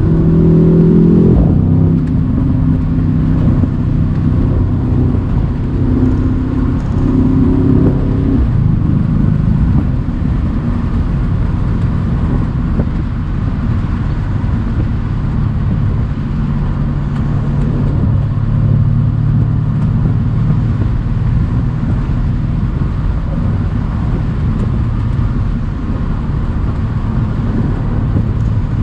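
Mercedes-AMG C63's twin-turbo 4.0-litre V8 running under way on a country road, with tyre and road noise. The engine note drops about a second and a half in, holds steady for a few seconds, sinks under the road noise, then comes through steady again around the middle.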